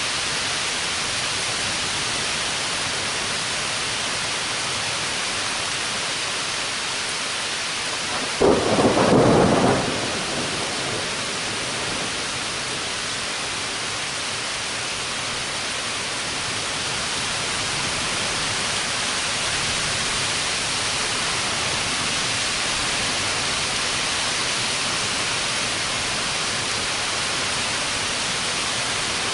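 Steady hiss of heavy rain, broken about eight seconds in by a sudden loud clap of thunder that rumbles for a second or two and fades back into the rain.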